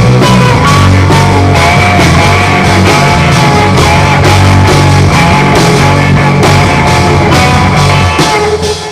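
A band playing a rock song with guitar and a steady drum beat. The song ends just before the close, leaving a last low note ringing out and fading.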